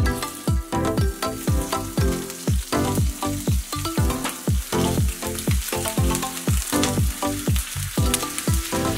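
Raw chicken thighs sizzling steadily in hot oil in a nonstick frying pan, skin side down. Background electronic music with a steady kick-drum beat, about two beats a second, plays over it.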